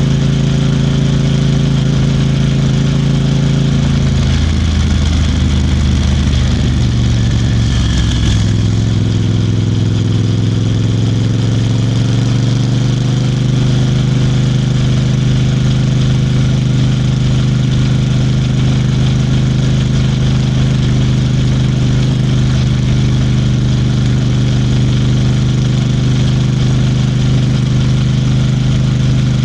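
Royal Enfield Bear 650 motorcycle's 648 cc parallel-twin engine running on the move. It holds a steady note, falls away and wavers about four seconds in, then picks up again with a rising pitch from about eight seconds and settles into a steady note for the rest.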